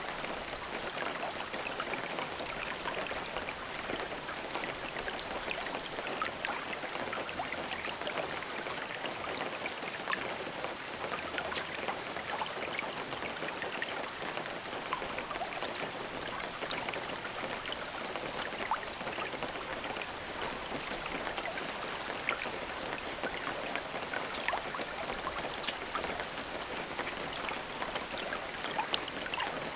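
Steady rain falling, an even hiss of many drops with small, sharp drop ticks scattered through it, and no thunder.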